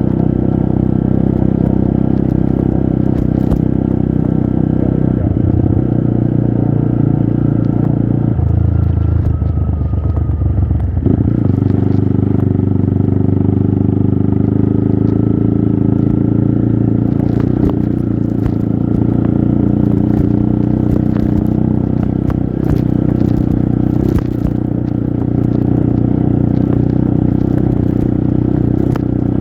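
Trail motorcycle engine running under load on a climb, its pitch shifting a few times as revs and gears change, about a third of the way in. Scattered short knocks and clatter sound over it in the second half.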